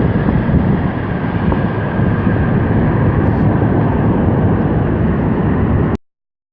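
British Airways Boeing 747-400 jet engines running: a loud, steady low rumble with a faint high whine, which cuts off suddenly about six seconds in.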